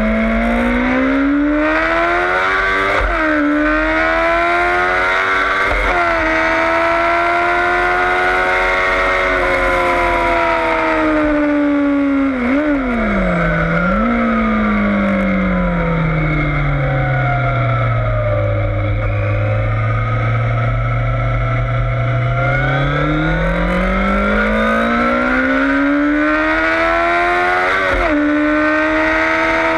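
Yamaha FZS600 Fazer inline-four engine working hard on a racetrack, over steady wind rush. The revs climb through several gear changes, then drop sharply with blipped downshifts about halfway. The engine runs low through a slow stretch and climbs again with another shift near the end.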